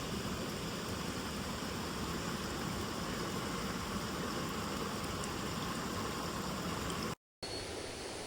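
Steady rushing of a mountain headwater stream, water flowing over rocks. It cuts out for a moment about seven seconds in and comes back slightly quieter.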